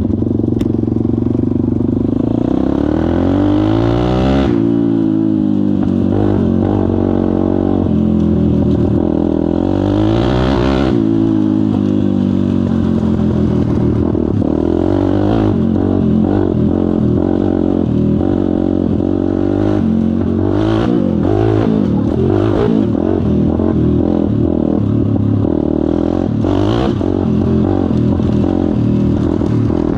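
Pit bike's single-cylinder engine being ridden, its pitch rising and falling again and again as the throttle is opened and closed.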